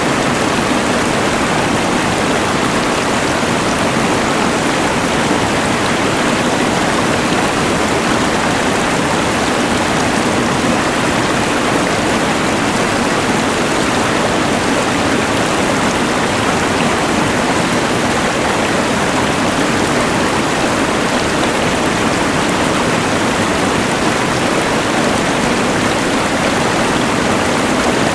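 Rushing mountain river layered with a LectroFan white noise machine: a loud, steady, even rush of noise that never changes.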